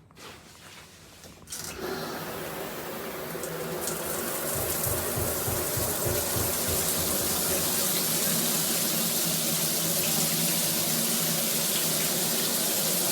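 Shower water switched on about a second and a half in, building over a couple of seconds into a steady hissing spray from a 12-inch rainfall shower head.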